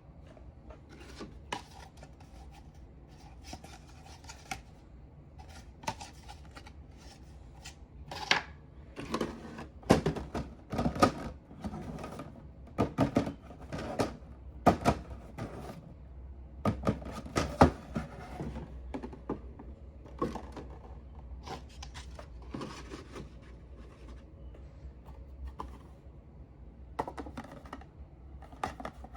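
Collectible cups and meal packaging being handled: irregular taps, clicks and scrapes, busiest in the middle stretch and sparse at the start and end.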